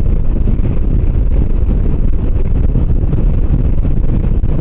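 Steady wind noise rushing over the microphone of a motorcycle under way, with the bike's engine and road noise underneath.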